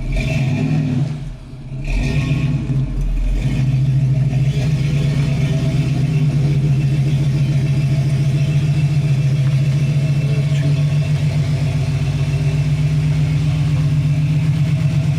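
A 1983 Cutlass Hurst/Olds V8 idles after warming up. The engine sags briefly about a second in and picks back up, then settles into a steady, evenly pulsing idle.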